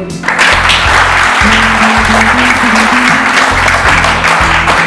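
Audience clapping, starting suddenly just after a speaker finishes and going on for about four and a half seconds, over background music.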